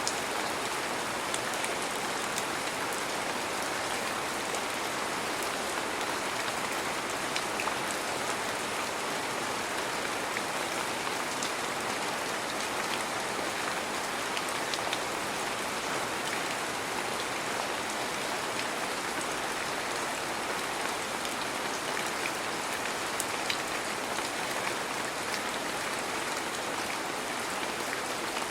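Heavy rain falling steadily, a dense even hiss flecked with many small drop taps.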